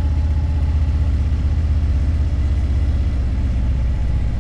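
Harley-Davidson motorcycle's V-twin engine running steadily with a deep, even pulse.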